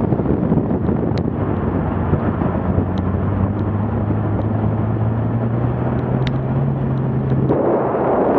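BMW car engine under way, its note climbing slowly for about four seconds and then dropping out near the end, under heavy wind rush on the hood-mounted camera. A few faint sharp ticks sound over it.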